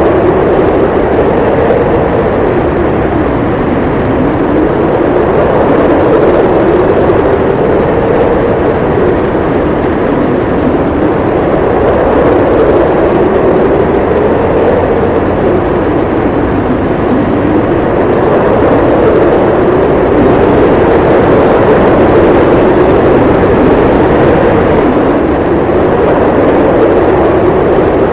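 Howling snowstorm wind: a loud, steady rush with a howl that slowly rises and falls in pitch every few seconds.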